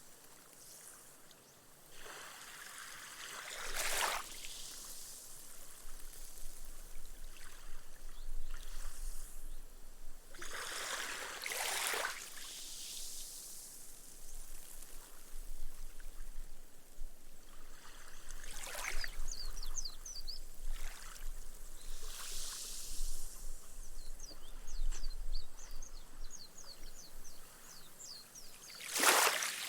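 Small, gentle waves lapping onto a sandy beach, four slow washes that swell and fall away, each followed by the fizz of foam soaking into the sand. Faint high chirps come in short runs in the second half.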